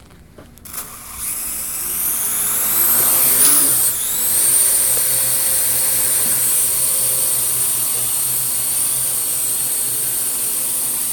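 Parrot AR.Drone quadcopter's four electric motors and propellers spinning up about a second in with a rising high whine as it lifts off. It then settles into a steady high whine while it hovers.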